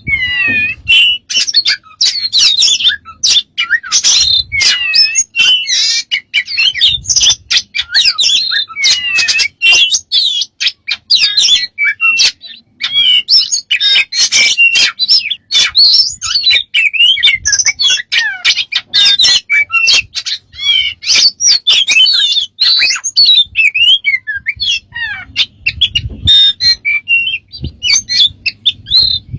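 A pet bird vocalising nonstop: a rapid, varied stream of chirps, whistled slides up and down, squawks and sharp clicks.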